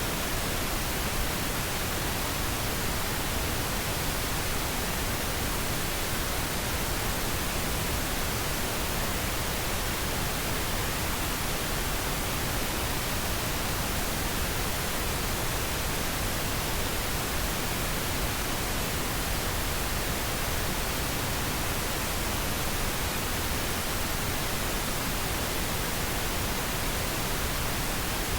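Steady white noise: an even, unchanging hiss across the whole range, with no other sounds in it.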